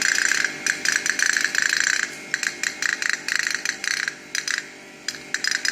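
Tok-tok (pop-pop) toy steam boat's metal diaphragm clicking rapidly as it runs, a fast, loud metallic rattle. It thins out for about a second near the end, then picks up again.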